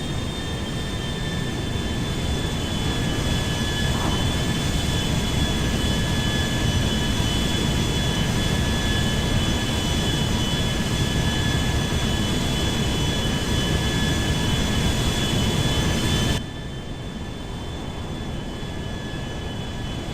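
Airbus A380 jet engines running: a steady deep rumble with a high whine on top. The sound swells slightly over the first few seconds, then drops suddenly to a quieter level about sixteen seconds in.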